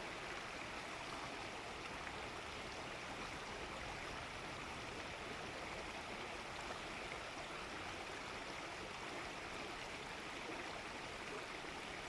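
Steady, even rush of running water, with no calls or other events standing out.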